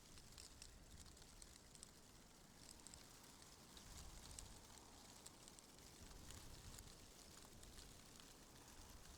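Faint wind through tree leaves: a soft rustle with light scattered ticks and a low gusting rumble that swells about halfway through.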